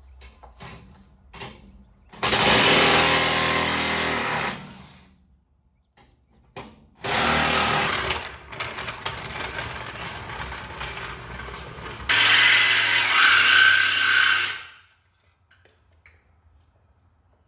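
A power tool cutting through steel exhaust pipe, running in three long stretches of a few seconds each with short pauses between them.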